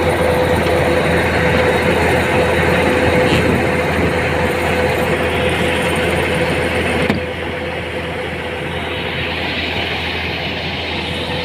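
A motor running steadily with a constant hum. About seven seconds in, the sound abruptly drops a little and turns duller.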